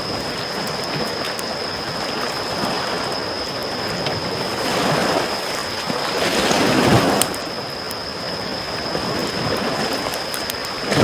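Small sea waves washing onto a shore, one swelling up and breaking about seven seconds in and another starting near the end, with a campfire crackling in scattered sharp pops.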